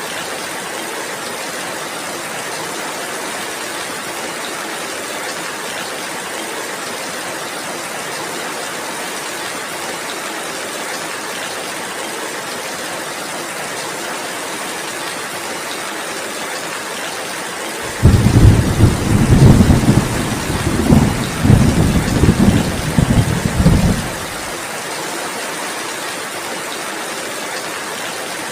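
Steady heavy rain falling. About two-thirds of the way in, a roll of thunder starts suddenly and rumbles in several loud peaks for about six seconds before dying away, leaving the rain alone again.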